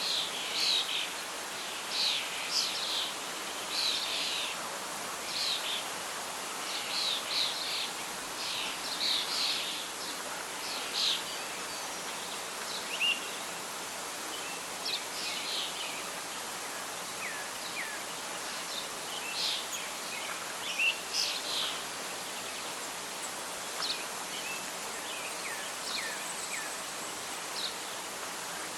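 Birdsong over a steady hiss of wind and rustling leaves: many short chirps and calls, thickest in the first half, then sparser with a few short falling whistles.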